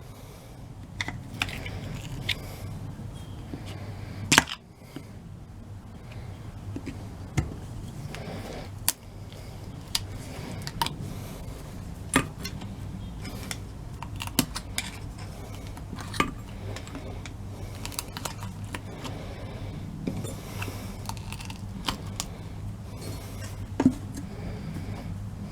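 Small metal clicks, taps and clinks at irregular intervals from hand tools and starter parts being handled during a starter and solenoid teardown, with one sharper knock about four seconds in. A steady low hum runs underneath.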